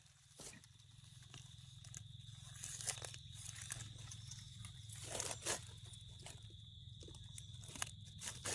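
Scattered crunching and rustling of dry leaf litter and twigs on the forest floor, in short irregular strokes, as someone moves through it or works at the ground while hunting termite mushrooms.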